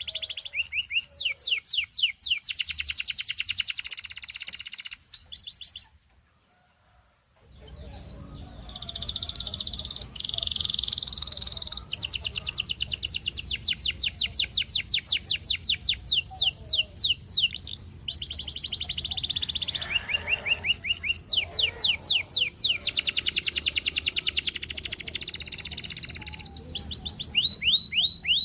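Russian singing canary singing long rolling trills, runs of fast repeated high notes, some sweeping up and down, broken by a brief pause about six seconds in. A low steady hum sits underneath from about seven seconds on.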